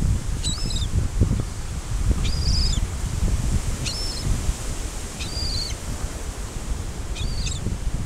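Birds giving short, high calls about five times, spaced a second or two apart, over the steady low rumble of surf and wind on the microphone.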